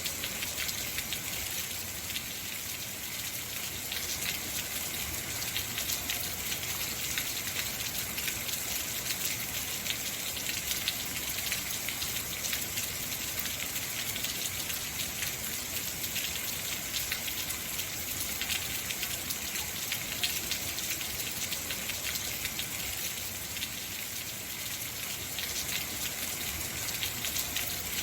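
Heavy rain falling steadily, a dense hiss of many fine drop impacts.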